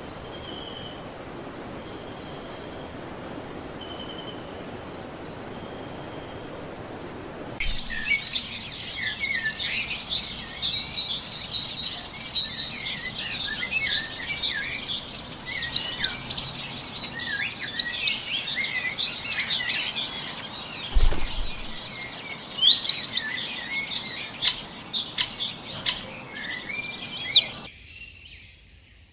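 A steady, high insect trill with short repeated lower pulses, cut off abruptly about a quarter of the way in and replaced by a dense chorus of many small birds chirping and twittering, which stops shortly before the end.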